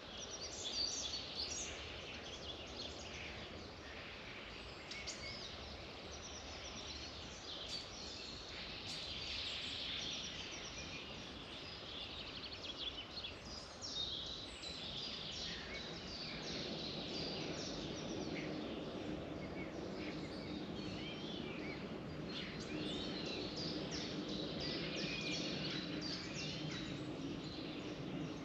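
Wild birds singing, a dense chorus of overlapping chirps and warbled phrases over a steady background hiss. From about halfway a low steady noise joins underneath.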